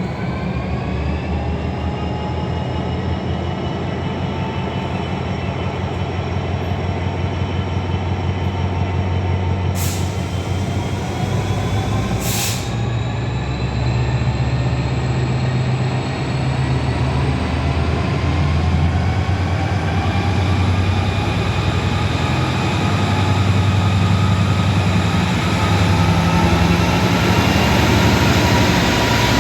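Class 66 diesel-electric locomotive's two-stroke V12 diesel engine working hard, its note climbing slowly and steadily as the locomotive pulls away under power. Two brief hisses of air come near the middle.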